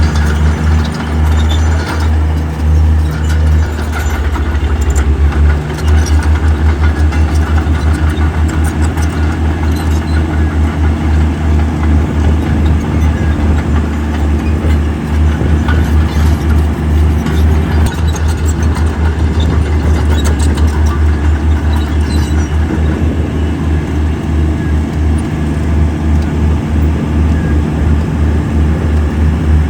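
Heavy diesel engine of earthmoving machinery running under load, a loud, deep rumble with a fast, even pulse.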